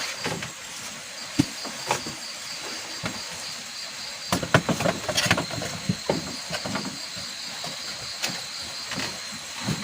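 Insects chirping steadily in a fast pulsing trill, with irregular knocks and clatters of handling, thickest around the middle.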